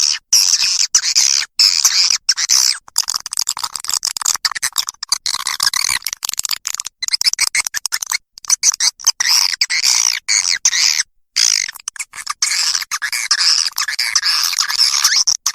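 Swiftlet call track: dense, rapid chattering twitters of swiftlets, a lure call used to draw swiftlets into a nesting house. It breaks off sharply into brief silences many times, around six seconds in, eight seconds in and eleven seconds in among them.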